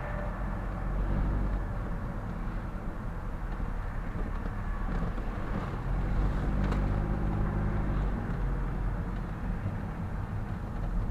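Car driving, heard from inside the cabin: steady engine and road rumble, with the engine hum a little louder about six seconds in.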